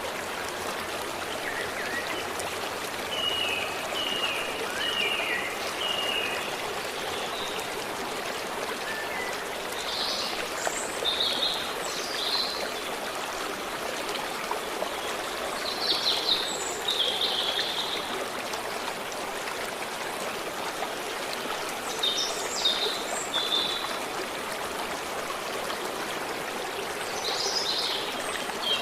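A forest stream running steadily, with birds singing over it: a run of short falling chirps early on the first few seconds, then brighter bursts of song several times.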